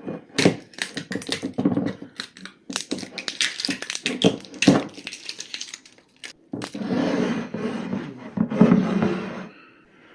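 Hand handling of a whiskey bottle's packaging: a quick run of clicks, taps and scratches as tape is picked and peeled off. About two-thirds of the way in, a longer rasping, rubbing stretch follows.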